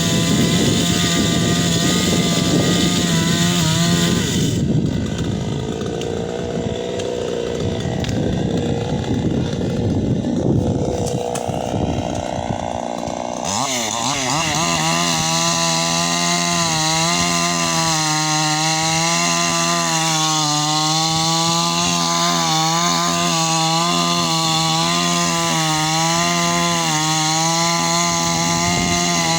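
Two-stroke chainsaw running at high revs, its pitch wavering slightly. For about nine seconds in the middle the sound turns rougher and noisier, as it does under load while the chain cuts into wood, then it returns to the steady high whine.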